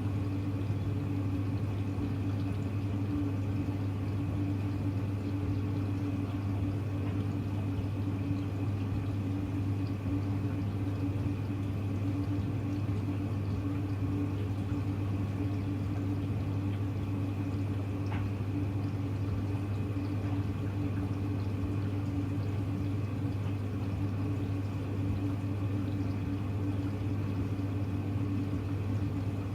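Hoover Electra front-loading washing machine running with a steady hum and the sound of moving water.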